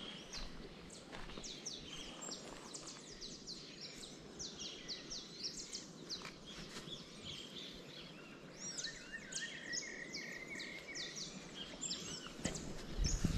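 Several birds chirping and calling with many short, high, quick notes, some sweeping down in pitch. From about nine seconds in, one bird adds a run of evenly repeated, lower notes. A brief low bump comes near the end.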